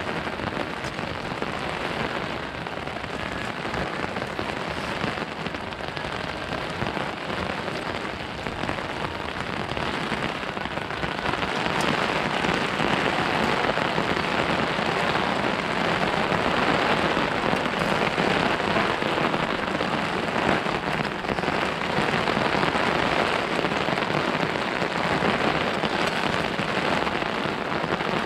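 Steady rain falling, a dense hiss of drops that grows heavier and louder about a third of the way in.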